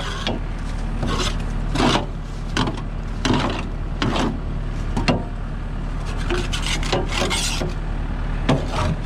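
A garden hoe scraping wet grass clippings off the underside of a mower deck: short rasping scrapes, roughly one a second, over a steady low hum.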